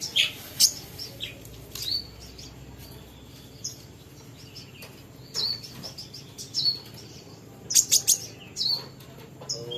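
Kolibri ninja sunbird giving short, scattered high chirps and sharp call notes, with a quick run of louder notes near the end.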